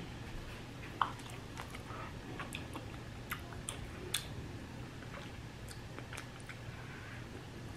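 A person biting into and chewing a sauced chicken wing, with scattered small mouth clicks and smacks.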